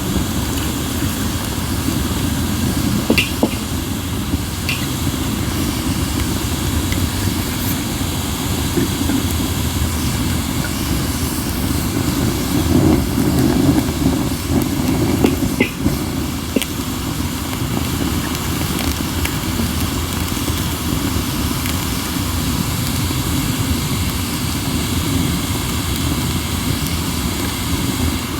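Acacia and mixed firewood burning, with a few sharp crackles and pops over a steady low rumble of wind on the microphone.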